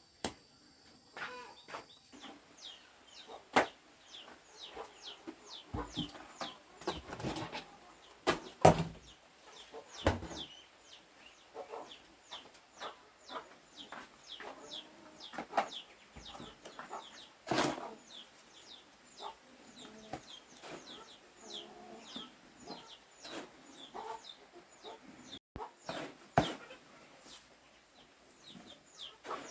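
Chickens clucking, with a steady stream of short, high, falling peeps throughout and a few sharp knocks or taps scattered through.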